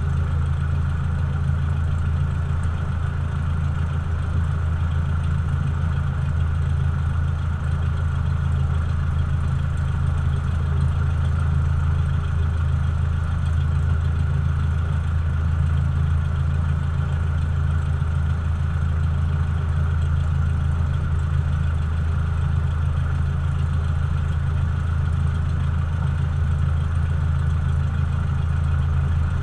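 Cessna 172's piston engine and propeller running at a steady, unchanging speed, a deep drone.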